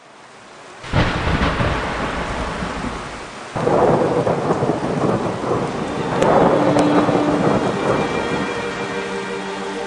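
Thunderstorm: steady rain fading in, with a sudden thunderclap about a second in and a second surge of thunder at about three and a half seconds, rumbling on under the rain.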